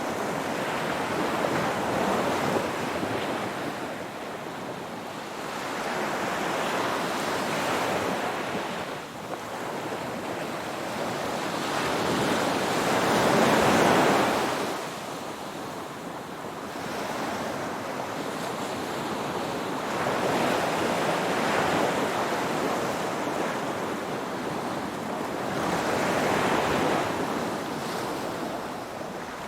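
Ocean waves breaking and washing on a shore, the surf swelling and ebbing every few seconds, with the biggest wave about halfway through.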